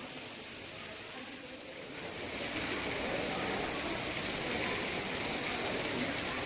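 Steady hiss of rushing water, a little louder from about two seconds in.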